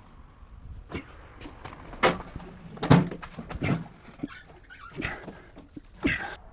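A man's heavy breaths and grunts of effort, about one a second, mixed with knocks and clunks, as he pushes and manoeuvres a heavy touring motorcycle by hand.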